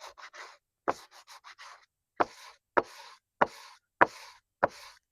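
Dry sandpaper rubbed by hand over a part in short back-and-forth strokes. From about two seconds in the strokes come evenly, about one every 0.6 s, each starting with a sharp tap.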